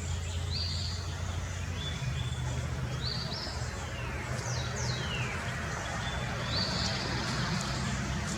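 Wild birds calling: short high notes a few seconds apart and a pair of quick downward-sliding calls about halfway through, over a low steady hum.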